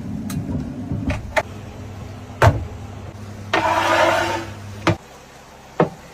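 A motor runs with a steady hum and stops abruptly just before the end, with a click. Several sharp knocks and a loud hiss of about a second and a half come near the end of its run.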